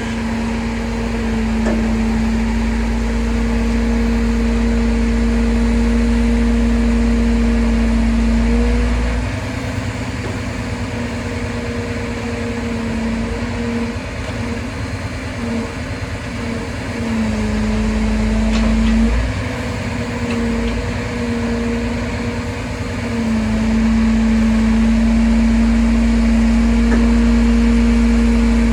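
Heavy vehicle engine running with a steady drone over a low rumble. The rumble eases and the drone wavers and breaks up from about nine seconds in, then both settle back steady a few seconds before the end.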